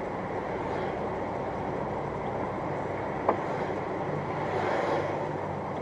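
Steady road and engine noise of a moving car, heard through a dashcam microphone inside the cabin, with one sharp click about three seconds in.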